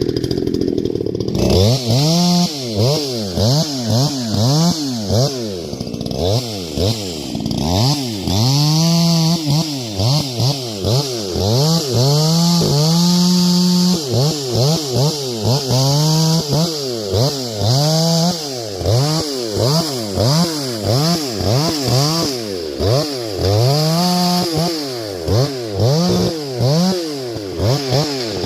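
Husqvarna 350 two-stroke chainsaw revving up to full speed and dropping back again and again, about once a second, sometimes held at full throttle for a second or two. It comes in about a second and a half in.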